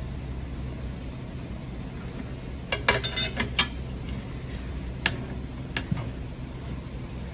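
A few light metallic clicks and clinks from tire-mounting work on ATV rims: a quick cluster about three seconds in, then single ones near five and six seconds. They sit over a steady low hum.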